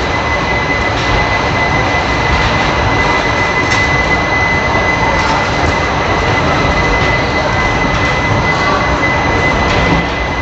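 Express train running between stations: a steady, loud rumble of wheels on track and coach noise, with a few faint clicks and a thin steady whine.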